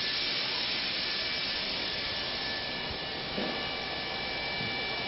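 Steady hiss and hum with a couple of faint, thin high tones held throughout.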